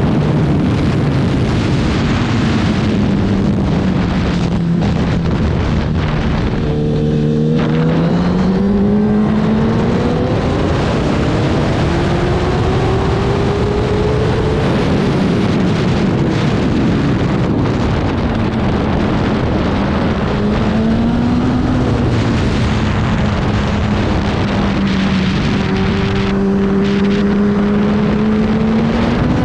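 Racing motorcycle engine running hard, its pitch sliding down and climbing back up as it slows and accelerates through the gears. The revs fall to their lowest about seven seconds in, then climb steadily again. A steady rush of wind and road noise lies underneath.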